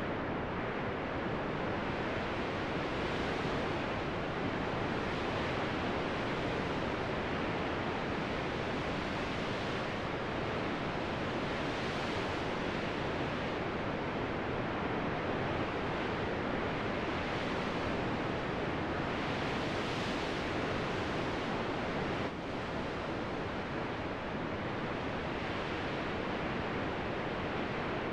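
Steady, even rushing noise with no distinct events; it drops slightly about 22 seconds in.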